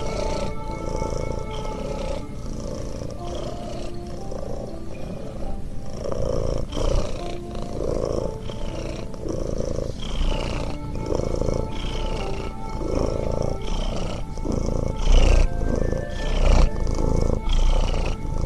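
A domestic cat purring, rising and falling with its breaths about once every second and a half, over background music with held tones.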